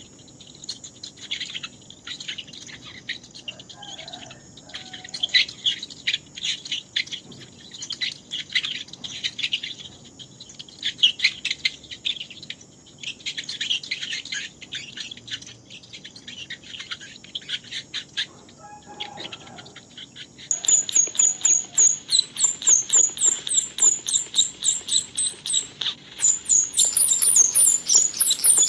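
Mouse squeaking: many short, high squeaks and chirps in a quick irregular stream. About two-thirds of the way in they turn louder, higher and faster.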